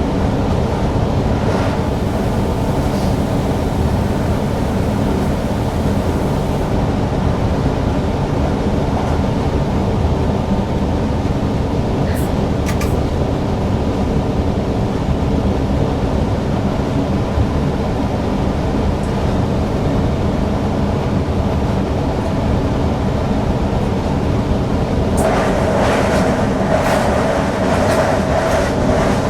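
Newag Impuls EN63 electric multiple unit running along the line, heard from inside the driver's cab: a steady rumble of wheels on rail with a faint motor hum. Near the end the running gets louder and rattlier, with a few sharp clicks.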